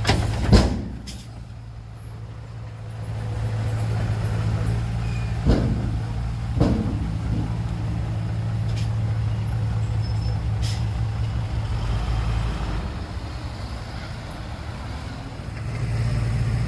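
Heavy diesel engine of earthmoving machinery running steadily, easing off and then picking up again twice. Three sharp metallic clunks, one at the start and two around five and a half to seven seconds in, stand above the engine.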